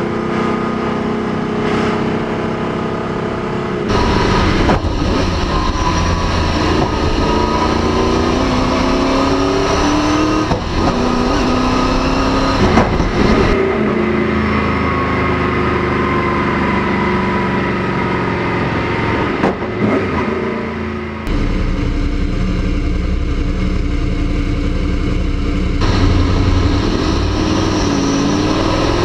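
Ford Indy four-cam V8 in a 1966 Mustang running hard on the road, its note rising and falling as it accelerates and shifts. The sound changes abruptly several times.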